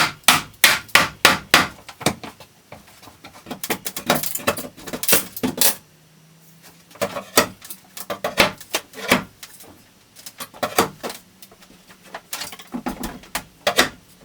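Hammer blows knocking cut 2x4 wood studs out of a wall frame to open a window rough opening: runs of sharp strikes, about three a second at the start, with short pauses between runs.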